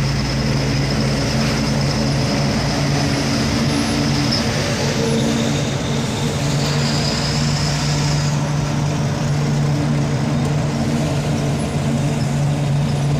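Tipper truck's diesel engine running steadily under way, heard from inside the cab, with road noise.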